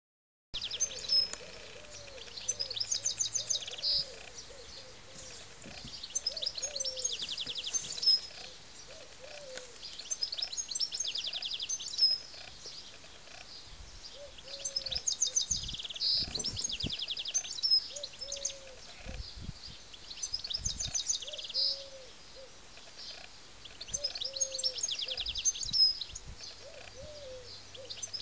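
Birds singing: bursts of rapid high trills and chirps every few seconds, over repeated lower gliding calls.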